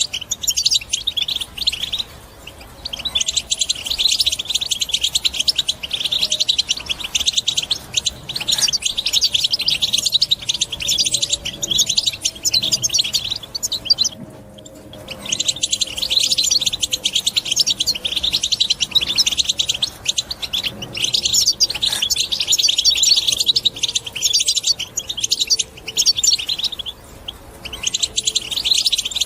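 European goldfinch singing a fast, dense twittering song in long phrases, with short breaks about two seconds in, near the middle, and near the end. It is the vigorous 'batbata' song type that keepers play to stir caged goldfinches into singing.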